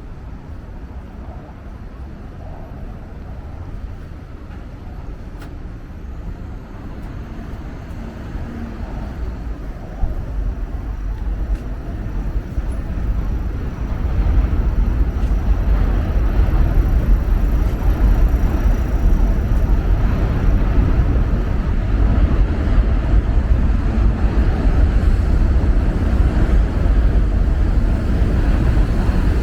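City street traffic noise: a steady rumble of passing vehicles that grows louder about halfway through.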